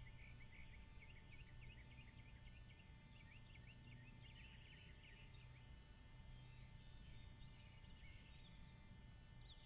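Faint birdsong: rapid, overlapping chirps for the first half, then a buzzy trill lasting about two seconds, over a steady low hum.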